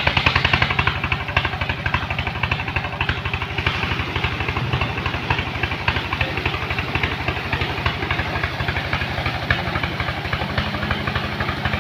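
Truck engine idling steadily with a fast, even pulsing beat; its pitch rises slightly near the end.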